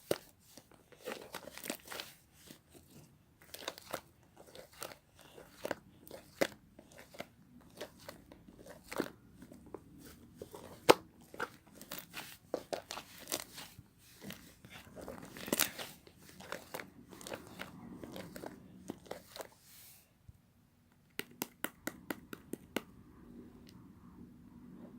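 Mixed slime being kneaded and squeezed by hand, giving many sharp, irregular pops and crackles. About 20 seconds in there is a short pause, then a quick run of small pops.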